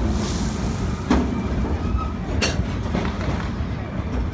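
Cedar Point & Lake Erie Railroad steam passenger train rolling along the track: a steady rumble of wheels on rails, with two sharp clacks, about a second and about two and a half seconds in.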